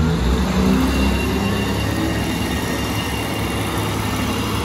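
Diesel railcar express train pulling out: its engines run under power and its wheels roll on the rails. A deep engine hum drops away right at the start, leaving a steady running sound with a few rising engine notes in the first two seconds.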